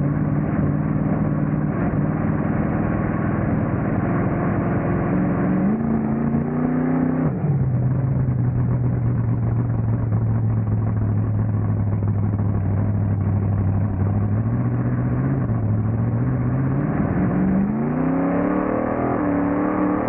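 Monster truck engine running under throttle: the revs climb, drop sharply about seven seconds in, hold low and steady, then climb again near the end.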